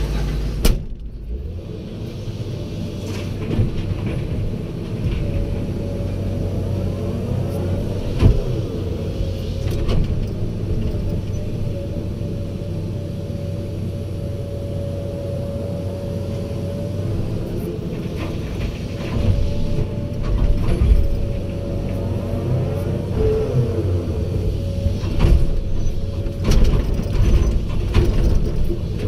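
Excavator's diesel engine running under load, with a steady hydraulic whine that rises in and drops out twice and a few sharp knocks of the machine at work.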